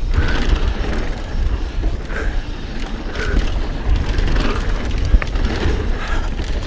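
Mountain bike riding on a dirt trail, heard from the rider's action camera: wind buffeting the microphone, tyres on dirt and the bike rattling, with a sharp knock about five seconds in.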